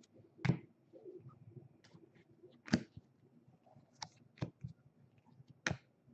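Trading cards being handled and sorted: about five sharp taps and clicks spread across a few seconds as cards are flipped and set down.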